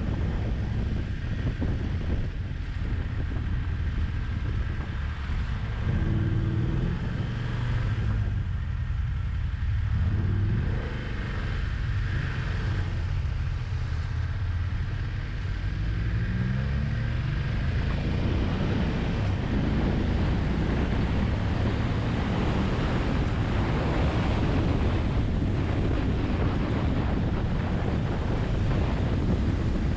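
Motorcycle engine running under heavy wind noise on the microphone. The engine note sinks low for a few seconds about a quarter of the way in, then climbs as the bike accelerates about halfway through, and the wind rush stays strong from then on.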